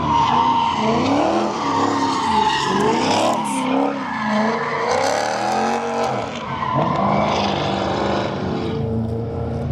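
A car's engine revving up and down hard, its pitch rising and falling again and again, while its tires screech as it slides sideways; the screech eases near the end.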